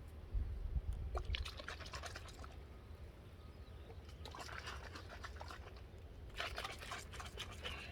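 Borax and water sloshing in a bottle shaken hard by hand to dissolve the borax for slime activator, in three bursts of rapid shaking about a second, four and a half and six and a half seconds in. Low bumps from handling near the start.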